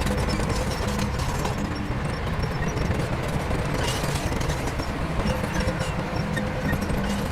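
Heavy diesel earthmoving machinery running steadily, a low rumble with a rapid clatter of metal knocks.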